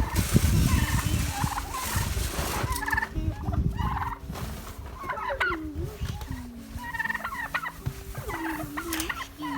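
A flock of heritage turkeys calling, with repeated gobbles and short gliding calls one after another.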